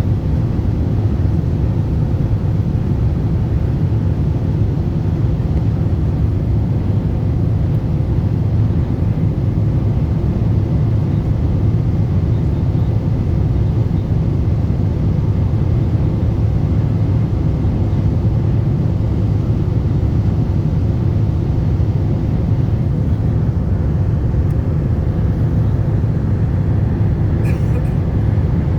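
Steady low rumble of a Boeing 747-8 airliner in flight, its engine and airflow noise heard as constant cabin noise during the approach.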